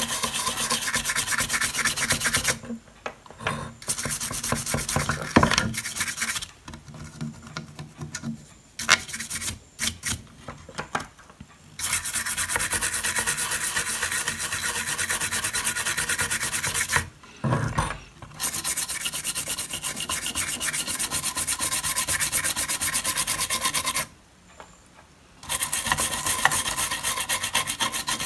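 Toothbrush scrubbed quickly back and forth over a freshly soldered circuit board to clean off rosin flux residue. It comes as a fast scratchy brushing in runs of a few seconds, stopping briefly several times.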